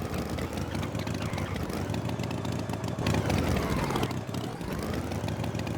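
A steady motor-like drone whose pitch dips and rises again every couple of seconds.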